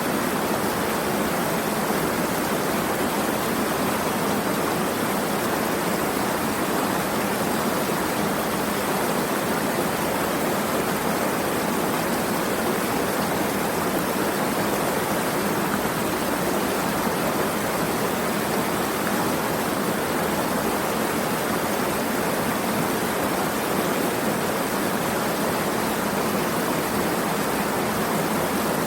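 Steady rushing water, an even hiss that never changes, with no separate splashes or drops standing out.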